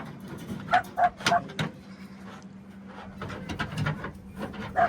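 Dog barking: a quick run of four sharp barks about a second in and another bark near the end, over a low steady hum.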